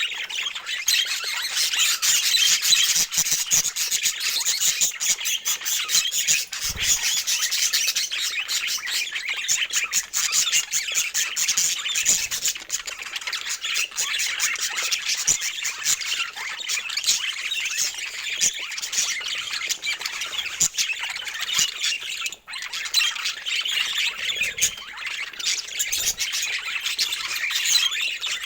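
Budgerigars chattering continuously, many birds calling over one another, with a momentary break about three-quarters of the way through.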